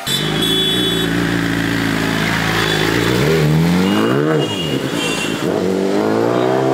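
BMW S1000RR sportbike's inline-four engine pulling away and accelerating. The engine note climbs, dips sharply about four seconds in, then climbs again.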